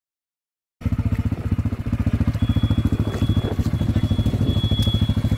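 Silence for under a second, then an ATV engine running at a steady, low, rapidly pulsing idle. About two seconds in, a thin, high, steady whine joins it.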